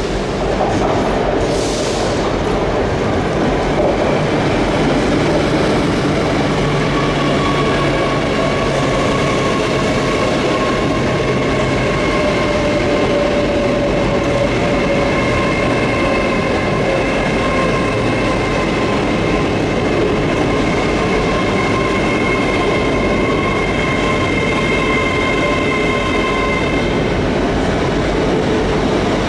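Hitachi Class 800 Azuma train running slowly past at close range, a steady rolling rumble of wheels on rail. A high squeal of several tones sets in about six seconds in and holds until near the end.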